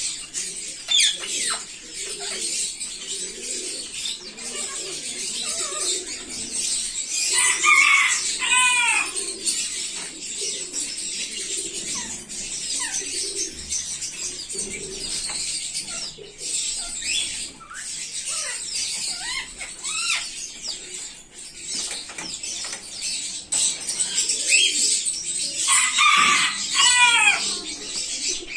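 A colony of Australian parrots chattering, a dense high twittering throughout. Two louder runs of repeated falling calls come about eight seconds in and again near the end.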